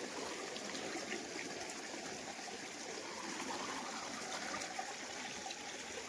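Steady trickling and splashing of a small waterfall's stream.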